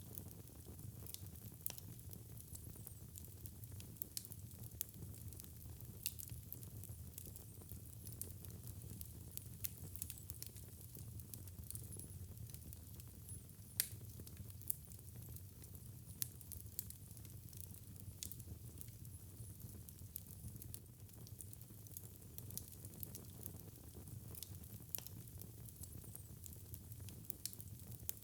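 Wood fire in a fireplace crackling: frequent small pops and snaps over a low, steady rumble of burning, with one sharper pop about fourteen seconds in.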